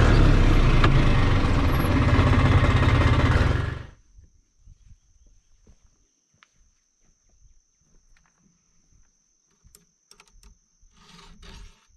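Tractor engine running loudly and steadily, then cut off suddenly about four seconds in. Near quiet follows, with a faint steady high whine and a few small scattered ticks.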